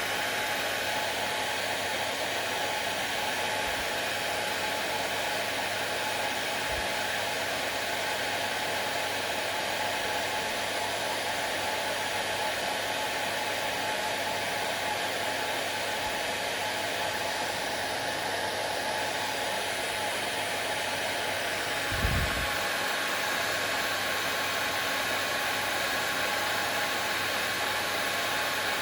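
Hair dryer running continuously at a steady level, giving an even rushing noise with a faint steady hum. There is one brief low thump about three-quarters of the way through.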